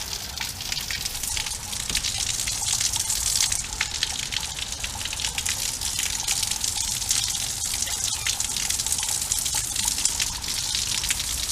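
Water gushing and splashing steadily, a dense crackling hiss with no break.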